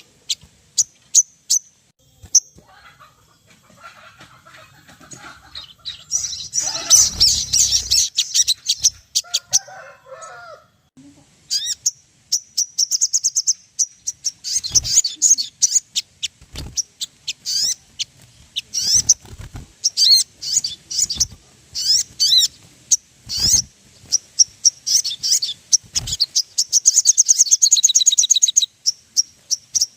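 Sogon (spiderhunter) calling: rapid runs of sharp, high chirps and rattling trills. The calling pauses briefly about a third of the way in, then resumes densely. This is a lure call meant to set a bird singing.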